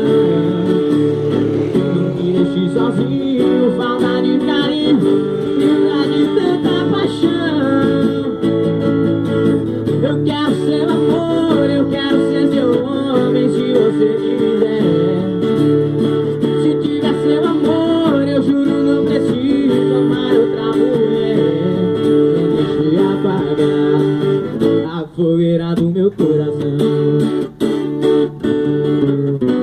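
Acoustic guitar strumming the chords of a sertanejo song, with a melody gliding above it. The playing breaks into a few separate strums with short gaps near the end.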